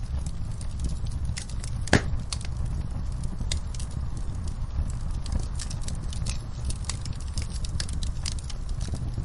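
Wood fire burning in a fireplace with a steady low rumble and frequent irregular crackles and pops, the loudest pop about two seconds in.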